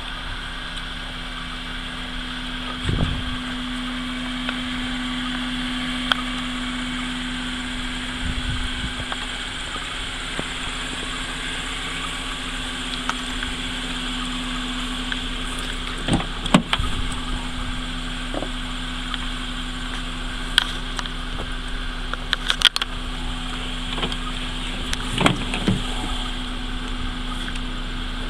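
Honda Accord's engine idling steadily, with scattered short knocks and clicks from its doors being handled.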